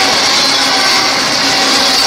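Freight train cars rolling past close by: a loud, steady rushing of steel wheels on rail, with some high ringing tones mixed in.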